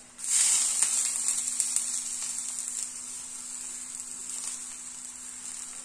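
A patty of ragi, sprouted moong dal and vegetable batter sizzling as it is pressed onto a hot tawa. The sizzle starts suddenly just after the start, loud at first, then slowly dies down.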